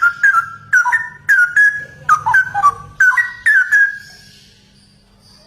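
Straw-headed bulbul (cucak rowo) singing a loud, fast run of liquid whistled notes, many slurring downward, which ends about four seconds in.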